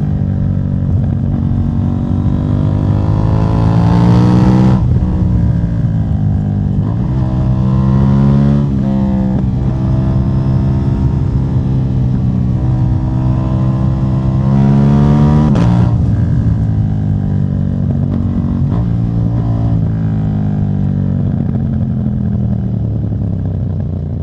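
KTM Duke 790's parallel-twin engine running with its catalytic converter removed. The pitch climbs steadily and drops sharply three times, about 5, 9 and 16 seconds in, then eases down near the end.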